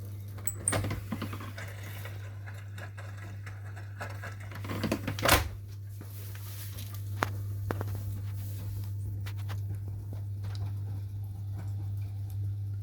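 Washing machine running: a steady low hum with scattered clicks and knocks, the loudest knock about five seconds in.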